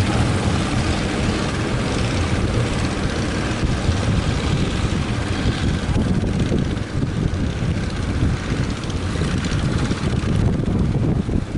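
Strong wind buffeting the microphone over the steady running of a fishing boat's engine at sea; the hiss eases a little near the end.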